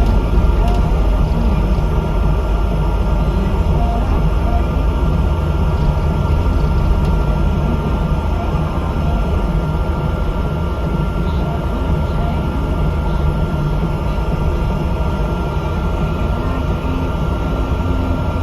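Bus engine and road noise: a steady low drone with a thin, constant whine above it, with no sudden events.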